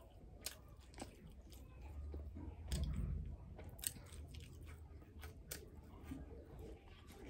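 A person eating rice and fried fish by hand, chewing and biting with scattered sharp, wet mouth clicks. A louder, low muffled bump comes a little under three seconds in.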